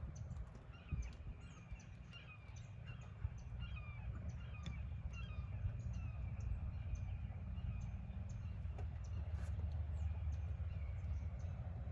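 A bird calls over and over in short, rapid notes through the first half, over a low steady background rumble that grows a little louder toward the end.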